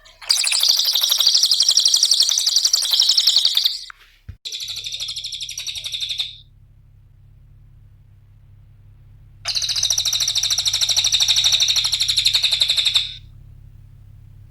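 Cililin songbird singing in three bouts of rapid, high, chattering trills, each lasting two to four seconds, with a pause of about three seconds before the last one.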